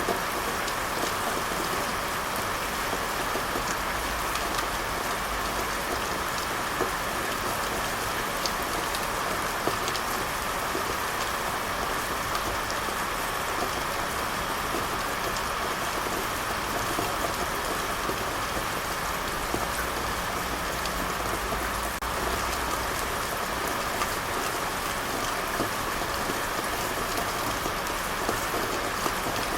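Steady rain falling, a dense even patter with many small drops ticking on a surface.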